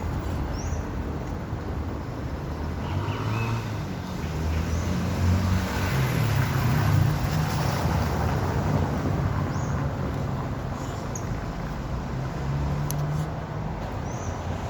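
Low, steady rumble of a motor, growing louder toward the middle and easing off again, with a few faint short high chirps over it.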